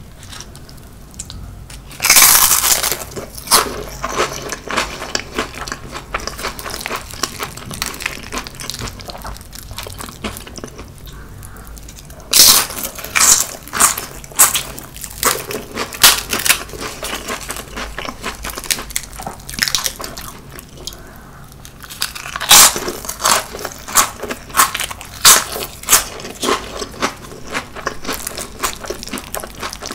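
Close-miked crunching of fried laver chips (gim-bugak) being bitten and chewed. Three loud crisp bites come at roughly ten-second intervals, one near the start, one near the middle and one about three quarters through. Each is followed by several seconds of rapid crackly chewing crunches.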